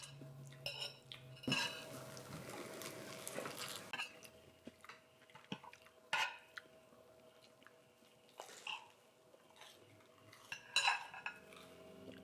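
Dishes and cutlery clinking and clattering, with separate sharp clinks every couple of seconds and a short stretch of hiss about two seconds in.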